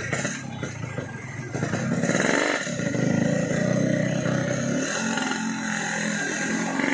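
Yamaha RX-King two-stroke single-cylinder engine with an opened-up 'bobokan' aftermarket exhaust, revving up about two seconds in and then running on at a steady pitch under way.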